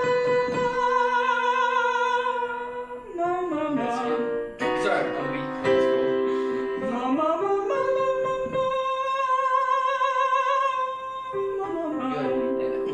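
A man singing a vocal warm-up exercise: two long held notes with vibrato, each reached by a slide in pitch, over a sustained instrumental accompaniment.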